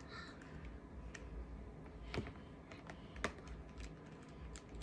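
Scattered light clicks and taps of small plastic toy vehicles and containers being handled on a tabletop, a few sharp ones about a second apart.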